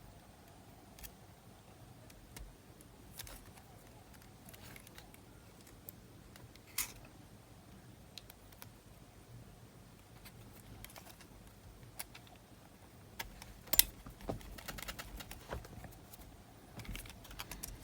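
Scattered small clicks and light rattles of the small plastic and metal parts of a cassette player's mechanism being handled and fitted back together, sparse at first and busier with a run of quick clicks near the end.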